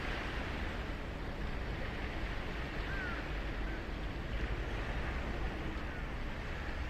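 Ocean surf washing steadily onto a sandy beach, with a low rumble underneath and a faint short chirp about three seconds in.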